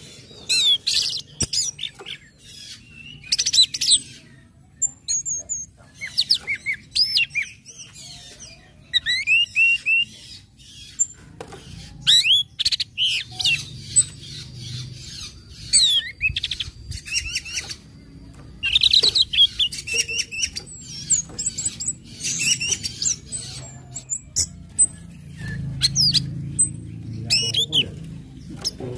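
Orange-headed thrush calling and singing in bursts of sharp chips and quick whistled phrases, with short pauses between them. These are the chipping 'ngecit' and 'ngeplong' call types that keepers play to excite other birds into singing.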